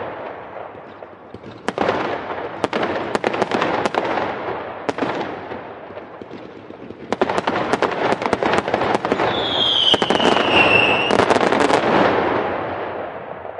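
Fireworks going off: repeated clusters of rapid sharp crackles over a steady crackling hiss. About ten seconds in, a whistling firework sounds for about a second and a half, its pitch falling slightly.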